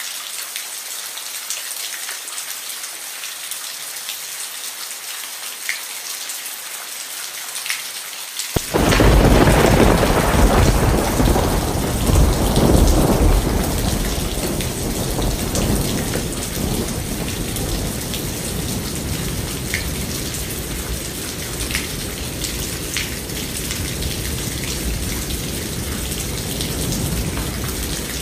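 Steady rain falling, joined about a third of the way in by a sudden loud clap of thunder that rumbles low and slowly dies away, with the rain going on underneath.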